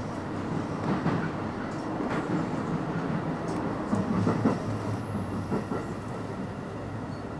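Special Rapid Service electric train running slowly under restrictive signals, wheels rumbling steadily on the track with a few clacks over rail joints. A low hum drops away at the start and comes back about four seconds in.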